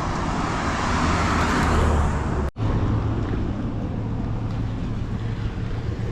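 Road traffic on a multi-lane highway: a vehicle's noise swells over the first two seconds, the sound cuts out for an instant about halfway through, then a steady low engine hum and tyre hiss carry on.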